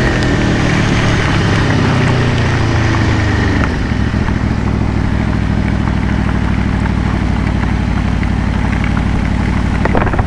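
Aprilia Tuono V4 Factory's V4 engine as the bike slows, its revs falling over the first few seconds along with the rushing noise, then running at steady low revs with a pulsing beat.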